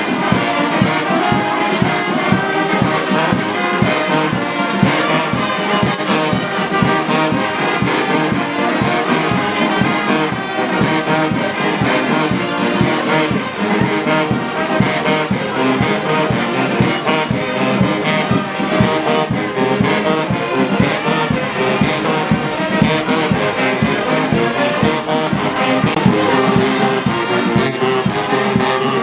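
Brass band playing without a break, trombones and trumpets to the fore.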